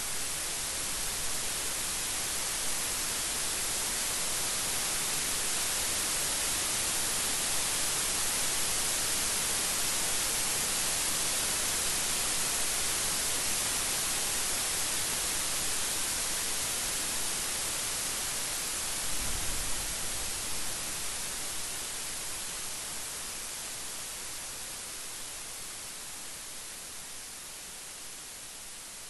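Steady rain falling, an even hiss, with a brief low thump about two-thirds of the way through; the rain grows gradually quieter toward the end.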